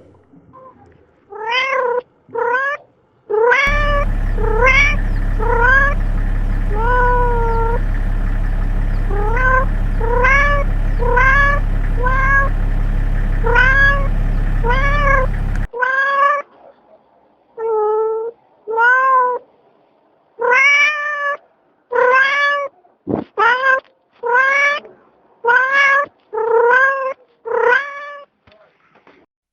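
A cat meowing over and over: short calls that rise then fall in pitch, about one or two a second. A steady low hum sits under the calls from about four seconds in and cuts off abruptly near the middle.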